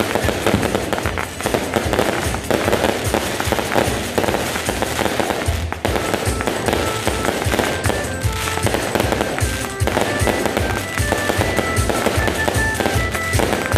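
Dense, continuous barrage of fireworks and firecrackers: rapid overlapping bangs and crackling with no break. Music with steady sustained notes comes through from about halfway in.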